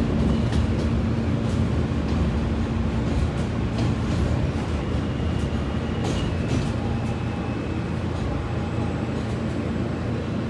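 Inside a New York City subway car: a steady low rumble with scattered sharp clicks, and a faint high steady tone through the middle.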